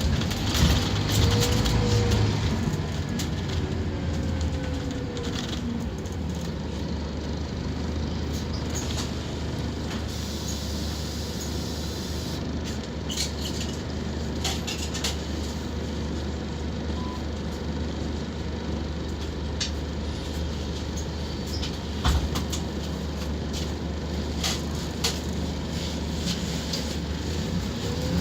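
Scania K230UB Omnilink bus's five-cylinder diesel engine running at a steady, unchanging pitch, with scattered clicks and rattles over it. There is a louder knock about two-thirds of the way through.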